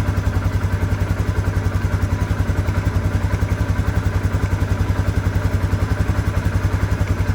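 Polaris Sportsman 570 ATV's single-cylinder engine idling steadily with an even, rapid pulse of about ten beats a second, run briefly to circulate freshly changed oil.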